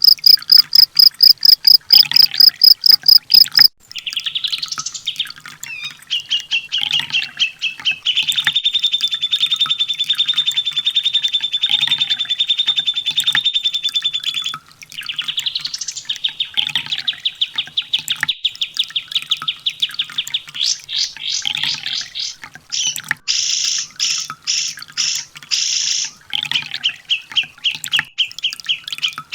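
Kolibri ninja (sunbird) song: long, rapid trills of fast repeated notes, each run lasting several seconds with short breaks between. Near the end come a few louder, higher-pitched bursts.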